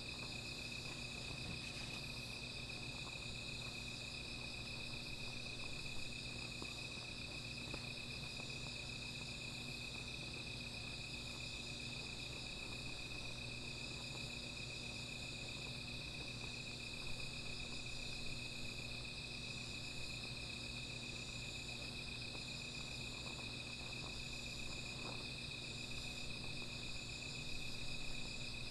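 Night chorus of insects trilling steadily at several high pitches, one of them pulsing on and off. A few faint crackles from a small fire sound now and then.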